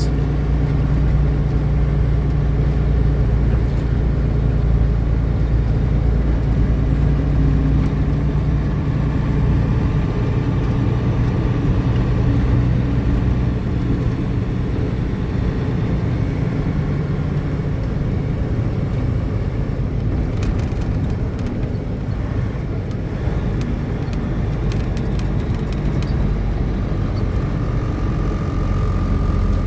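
Milk tanker truck's diesel engine and road noise heard inside the cab while driving: a steady low drone whose pitch shifts slightly partway through.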